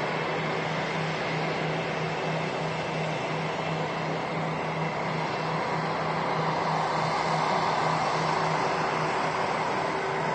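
Airliner's engines running on the ground: a steady rushing noise with a steady whine, growing a little louder about seven seconds in.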